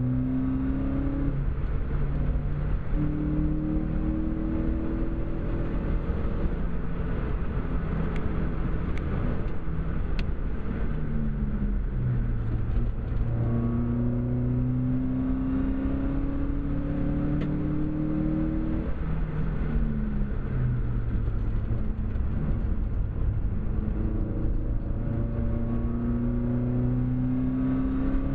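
Seat Cordoba Cupra's 2.0 16V four-cylinder engine heard from inside the car while being driven hard on a circuit: the engine note climbs slowly under full acceleration in three long pulls, dropping back in between as the driver lifts or changes gear, over a steady road and wind noise.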